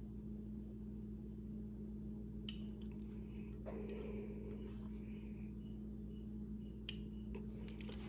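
Faint workbench handling sounds of small tools on a pistol slide as optic-mount screws are worked: a sharp click about two and a half seconds in, a stretch of soft rubbing, and another click near the end, over a steady low electrical hum.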